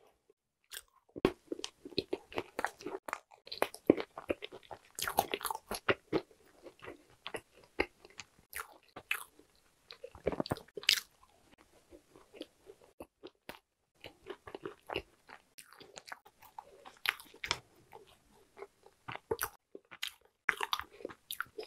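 Close-miked chewing of a Korean walnut cake (hodu-gwaja) filled with red bean paste and butter: irregular crunchy bites and chews from the cake and its walnut pieces, with a brief pause just past the middle.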